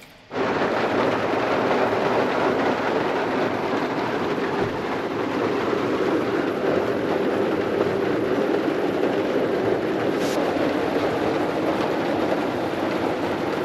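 Heavy rain falling on a camper van's roof and windows, heard from inside: a steady, dense noise that does not let up.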